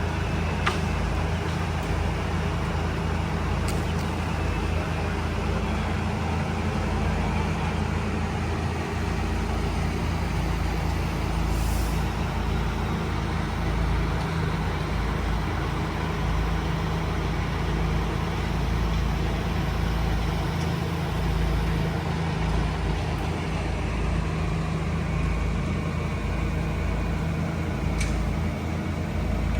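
Heavy diesel engine running steadily at a constant speed, a low drone, with a few faint ticks over it.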